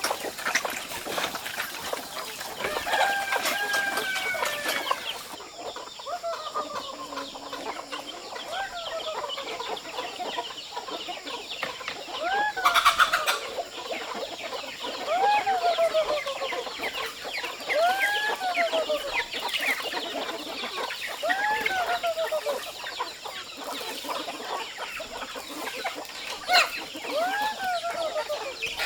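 Chickens calling in a flock: short rising-and-falling calls repeat every second or two over a constant crackle of small clicks. A brief louder noisy burst comes about halfway through.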